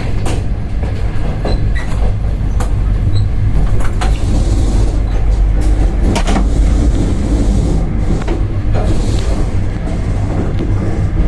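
Passenger train rolling into a station: a heavy low rumble with repeated sharp clacks of wheels over rail joints. Two stretches of hiss come in the middle.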